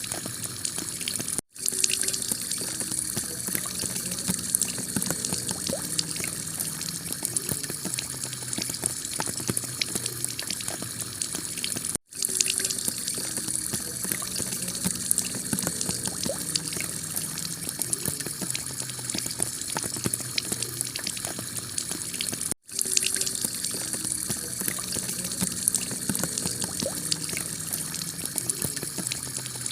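Heavy rain falling steadily on a tiled roof, with many small drop hits through the hiss. The sound cuts out for a split second three times, about every ten seconds, at the joins of a looped recording.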